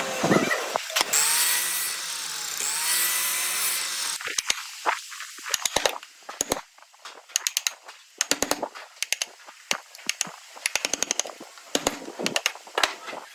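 A power tool runs for about four seconds, its pitch dipping once and recovering, then stops. After that come rapid clusters of sharp clicks and taps.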